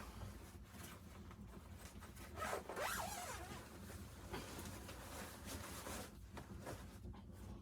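A zipper being worked, with rustling of fabric; it is loudest about two and a half to three seconds in.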